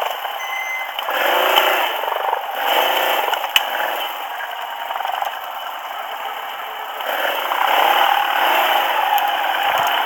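ATV engine running while the machine clatters and rattles over rough ground, the engine note swelling and falling several times, with a single sharp knock about three and a half seconds in.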